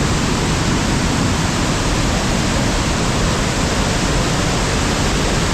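Waterfall and stream water rushing loudly and steadily, the falls in full flow after heavy rains.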